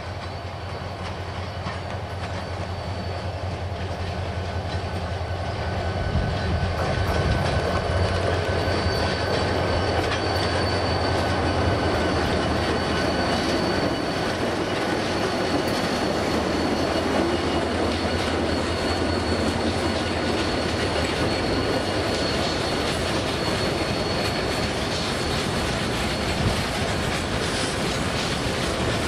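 Diesel freight train passing close by: the locomotives' engines rumble, growing louder over the first six seconds, then the wheels clatter over the rail joints with a thin, steady, high-pitched squeal.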